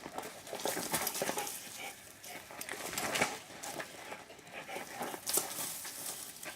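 A dog scrambling after a toy dragged on a string: irregular scuffs and rustles of paws and the toy on the ground.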